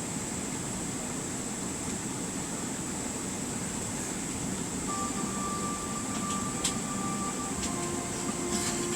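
Steady cabin noise inside an Emirates Boeing 777 on the ground after landing: an even rumble of air-conditioning and engine noise with a constant high whine. From about halfway, a few steady tones join in, and there are a couple of sharp clicks near the end.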